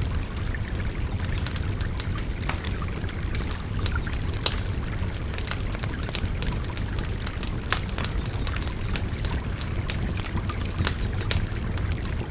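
Wood fire crackling, with frequent sharp pops and one louder snap about four and a half seconds in, over the steady babble of a river.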